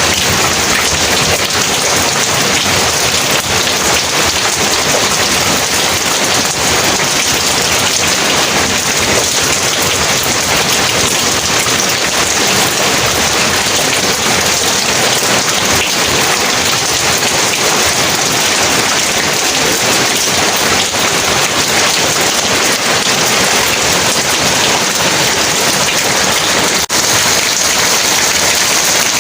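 Heavy rain pouring steadily in a dense, even hiss of drops, dipping for an instant near the end.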